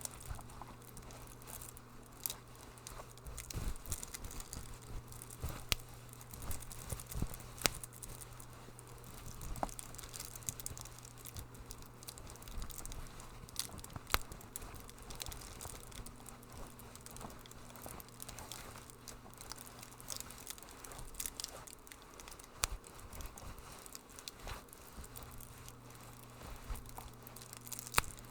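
Wood fire crackling in a fireplace, with irregular pops and snaps over a faint steady low hum.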